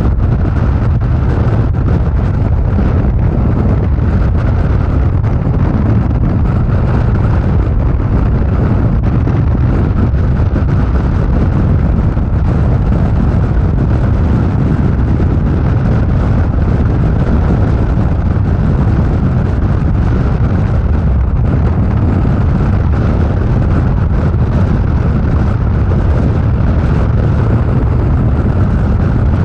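Steady, heavy wind rush on the microphone at freeway speed, with the motorcycle's engine and road noise running underneath.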